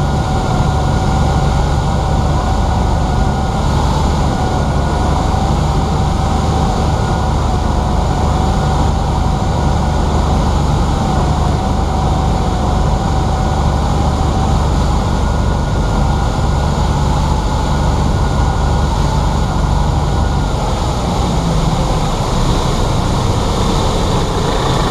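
Cessna 182's piston engine and propeller droning steadily in the cabin at reduced power on final approach, with a thin whining tone over it. The sound changes about twenty seconds in as the airplane comes in to land.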